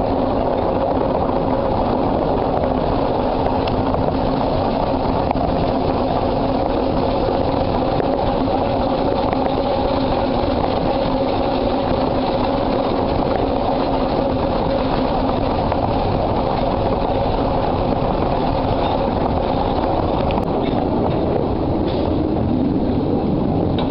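Miniature railway train running steadily along the track, a continuous loud rumble of wheels on rail with a steady hum, which bends in pitch briefly near the end.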